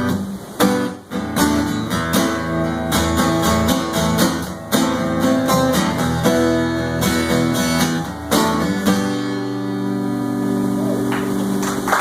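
Acoustic guitar strummed in a steady rhythm, playing the instrumental ending of a song after the last sung line.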